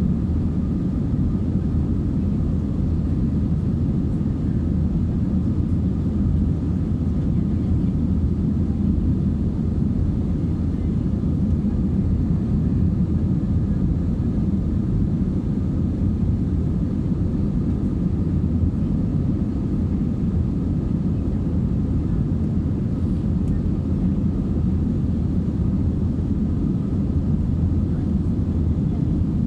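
Steady cabin drone of an Airbus A320-232's IAE V2500 engines and rushing airflow, heard inside the cabin while the airliner climbs after takeoff. It is a constant low rumble with a faint steady whine above it.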